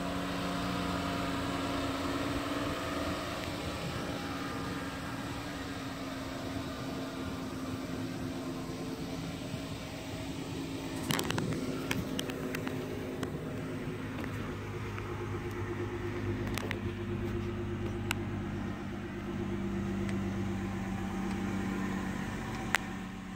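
A vehicle engine idling: a steady low hum whose tone shifts slightly over time. A few sharp clicks come about halfway through, and a single one comes near the end.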